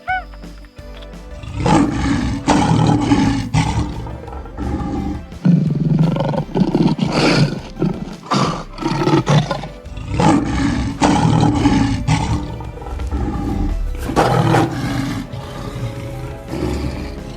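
A big cat roaring, several calls with short gaps between them, over background music.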